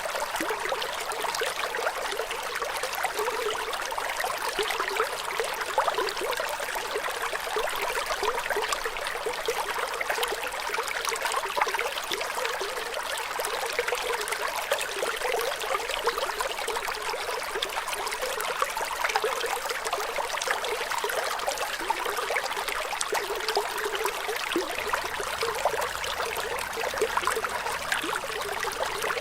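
Running water trickling and splashing steadily, a constant flow with fine bubbling detail and little low rumble.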